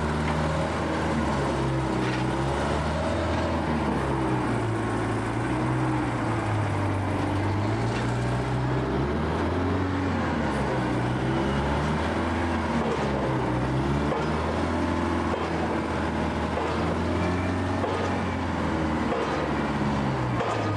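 Heavy engine on a pile-driving rig running steadily, its pitch rising and falling every few seconds as the revs change.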